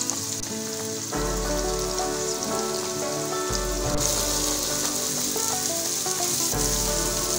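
Diced capsicum and carrot sizzling steadily in hot oil in a pot. Background music comes in about a second in.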